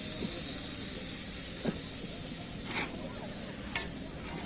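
Beef steak sizzling in a hot pan, a steady high hiss that slowly dies down, with a couple of sharp fat pops near the end.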